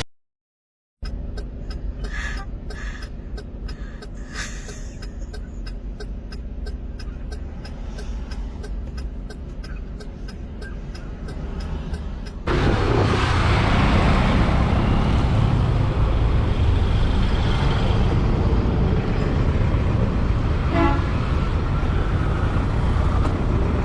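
Motorcycle engine humming low with a steady tick about three times a second, then, after an abrupt cut about halfway, louder riding noise of engine, wind and traffic, with a short horn-like tone near the end.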